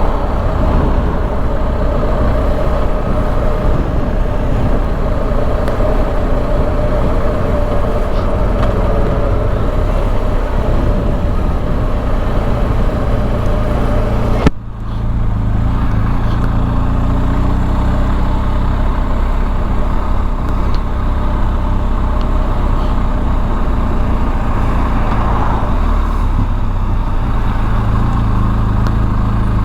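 Motorcycle engine running steadily while riding, with road and wind noise. About halfway through there is a sudden click and short dip, after which the low engine rumble is heavier.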